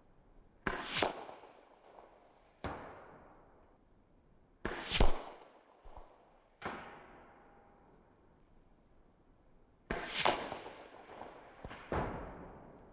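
AEA Terminator .35 big-bore PCP air rifle firing repeatedly: about six sharp shots roughly two seconds apart, each trailing off. Some have a second crack a split second after, likely the pellet striking.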